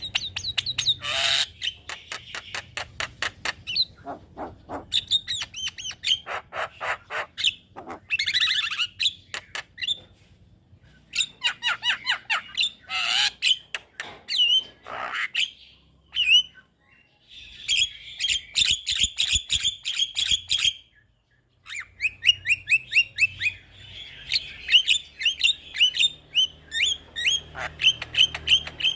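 Javan myna singing: long runs of rapid chattering, clicking and whistled notes, broken by a few short pauses.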